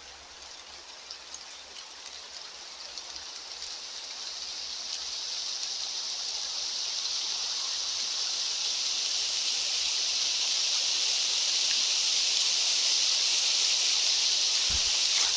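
Steady high rushing hiss of outdoor ambient noise that swells gradually louder, with faint scattered ticks like drips in the first few seconds.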